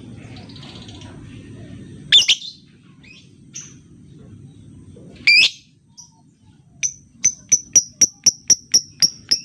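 Lovebirds calling: two loud, harsh shrieks, then a quick series of about ten short sharp chirps at about four a second near the end.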